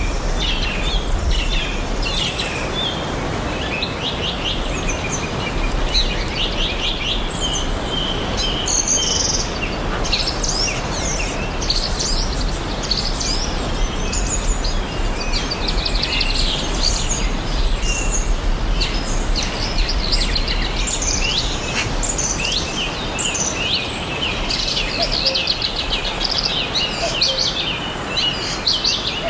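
Many songbirds chirping and trilling at once, short quick phrases overlapping throughout, over a steady rushing hiss.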